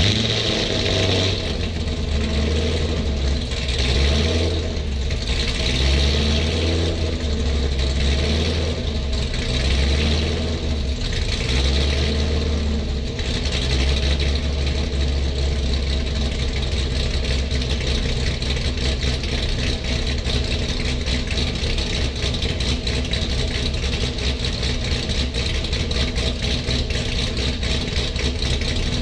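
Sixth-generation Chevrolet Camaro engine running just after starting, with an uneven, pulsing idle for roughly the first half that then settles into a steadier run.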